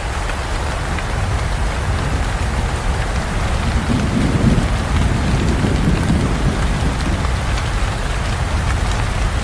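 Heavy rain falling steadily. A low rumble of thunder swells about three and a half seconds in and dies away a few seconds later.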